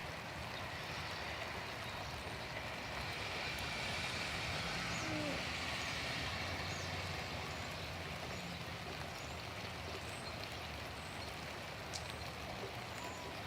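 Steady hiss of rain falling during a thunderstorm, swelling slightly in the middle and easing again.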